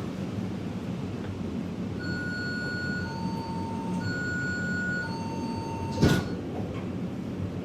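Metro train standing at a station with a steady low hum: a two-tone chime alternates high and low notes, four notes of about a second each, then the sliding doors close with a loud thump about six seconds in.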